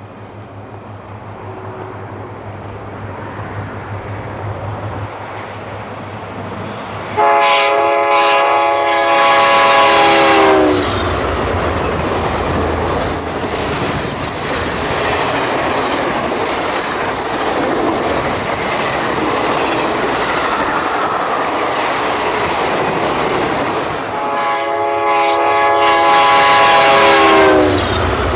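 Train running with a steady rumble of wheels on rails, growing louder over the first several seconds, its multi-note horn sounding twice, for about three seconds each time, once about a quarter of the way in and again near the end.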